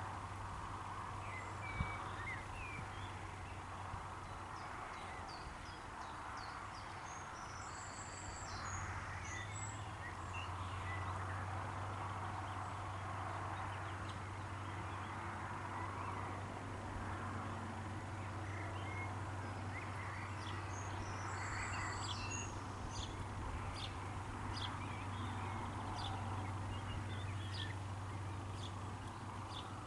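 Birds calling and singing: scattered short high chirps, with two fuller song phrases about a quarter of the way in and again past two thirds. Under them, a steady low hum and a soft rushing background that swells and fades.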